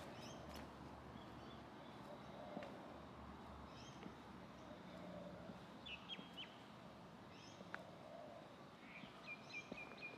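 Faint outdoor quiet with a few short, high bird chirps scattered through, and a quick run of chirps near the end.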